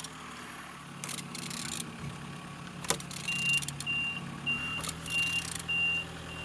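Rasping and clicking of a removed, non-running engine being turned over by hand, over a steady low hum. From about halfway, a vehicle's reversing alarm beeps steadily, roughly every half second.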